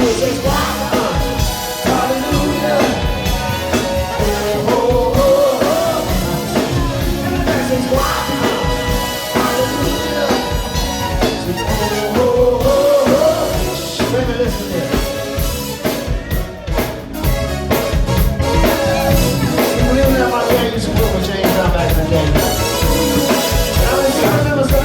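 Live band music with a steady drum kit beat and a voice singing over the band.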